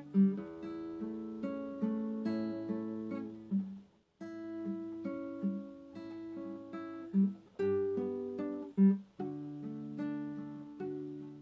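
Acoustic guitar playing a slow, gentle piece of plucked chords and single notes, with a short pause about four seconds in.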